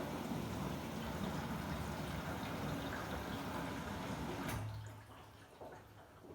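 Water rushing into or through the drum of a Samsung WW90J5475FX/AH front-loading washing machine during its rinse cycle. The rush cuts off abruptly with a click about four and a half seconds in, and a faint low hum remains.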